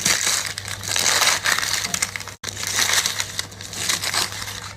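Crunching and crackling of something being crushed, with a brief break about two and a half seconds in.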